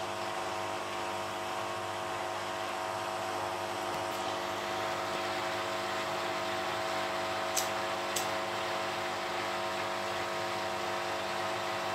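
Beko WTB740E1W front-loading washing machine running a wash cycle before the spin: a steady motor hum with a hiss over it, and two light ticks about two-thirds of the way through.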